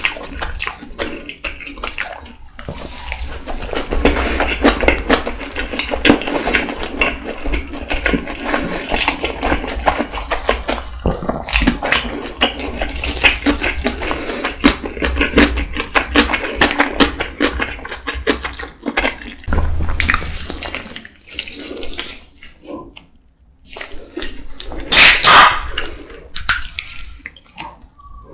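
Close-miked chewing of tuna kimbap: continuous wet, sticky mouth sounds with many small clicks and smacks. The chewing thins out a few seconds before the end, and a short loud burst follows.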